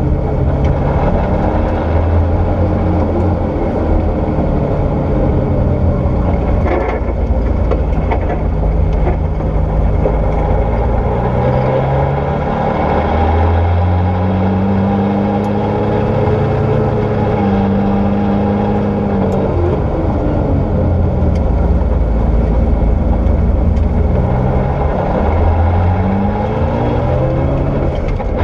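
Porsche 964 rally car's air-cooled flat-six engine being driven hard on gravel, its pitch climbing, holding and dropping again and again as it accelerates, shifts and lifts, with a few sharp ticks over the engine note.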